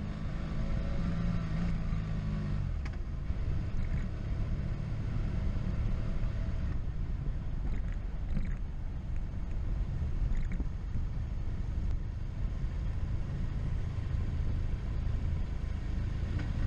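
A motorcycle being ridden at speed down a mountain road, heard mostly as wind rushing over the camera microphone with the engine's hum underneath. A steady engine tone stands out in the first two or three seconds.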